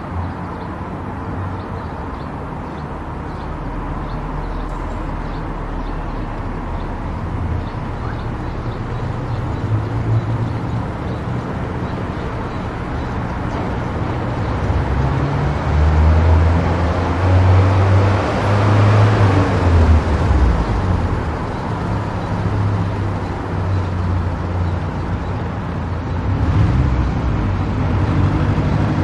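Car driving on an expressway: steady engine and tyre rumble with road noise, swelling louder for a few seconds about two-thirds of the way through, as of a vehicle passing close by.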